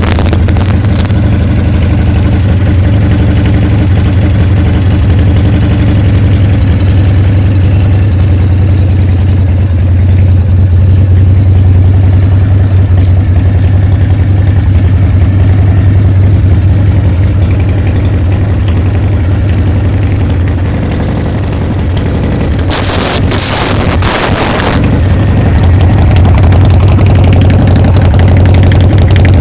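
1995 Harley-Davidson Softail Springer's 80-cubic-inch Evolution V-twin idling loud and steady on choke just after a cold start. A brief hiss cuts in for about two seconds near the end.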